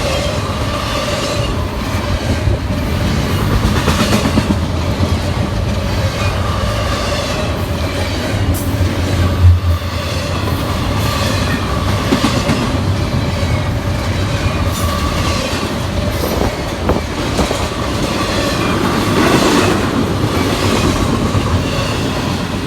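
CSX intermodal freight train rolling past at close range, its cars clattering steadily over the rails, with a steady ringing tone running through the noise.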